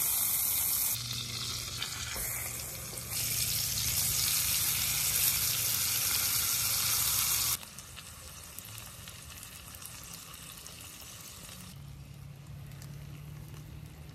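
Food frying in a hot cast-iron skillet: a loud sizzle as a squeezed condiment hits the pan, which drops suddenly about seven and a half seconds in to a quieter, steady sizzle of beef patties frying.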